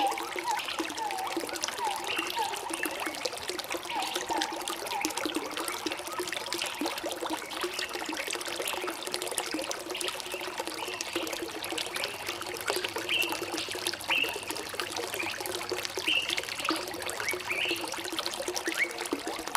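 Water trickling and running steadily over stones, with short bird chirps now and then, more of them in the second half.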